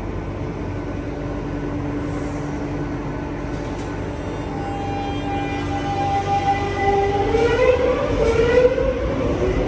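Madrid Metro Line 6 train pulling out of the station: a steady hum, then from about two-thirds of the way in a whine of several tones rising in pitch together and growing louder as the train speeds up.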